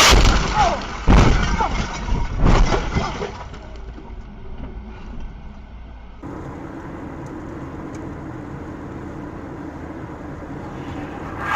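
Car collision recorded by a dashcam: a loud crash at the start, with further heavy impacts about a second and two and a half seconds in. From about six seconds, steady engine and road noise.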